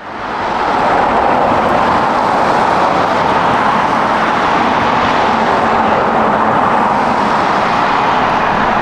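Steady jet engine noise of an airliner close by, fading in over the first second and then holding at a loud, even level.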